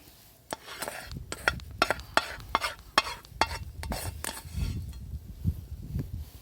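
A utensil stirring and scraping food in a pan or pot while cooking: a quick, irregular run of clinks and scrapes.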